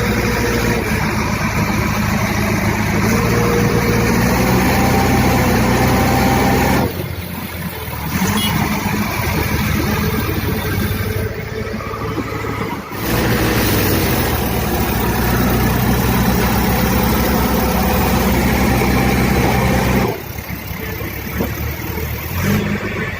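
JCB backhoe loader's diesel engine running with a steady pitched note. It eases off about seven seconds in, comes back up about thirteen seconds in, and eases off again about twenty seconds in.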